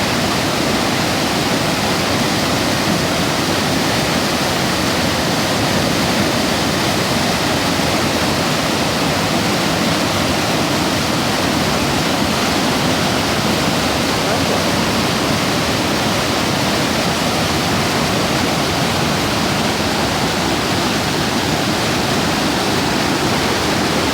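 Flooded river in spate pouring over a weir: loud, steady rushing water.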